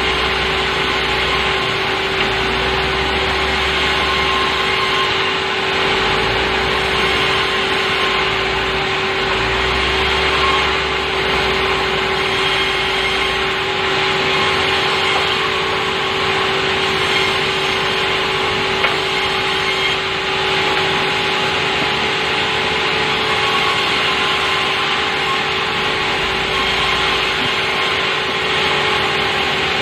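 Sawmill saw running steadily with a constant hum, cutting softwood into 4×6 timber; a low rumble comes and goes through the first half.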